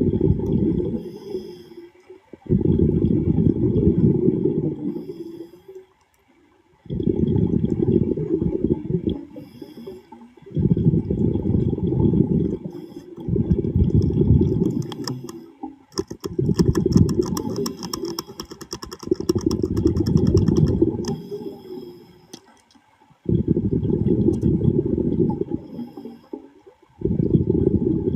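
A diver's exhaled breath bubbling out underwater, a low rumbling gurgle in bursts of two to three seconds that come back every few seconds, about eight times. About halfway through, a dense run of fine clicks and ticks sounds over it for several seconds.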